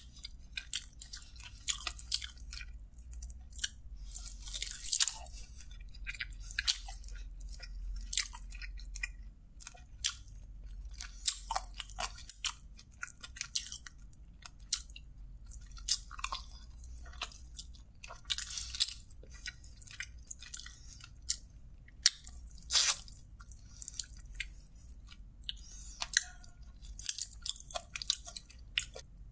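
Close-miked chewing and biting of sauce-coated chicken drumsticks: an irregular run of wet mouth smacks and sharp clicks.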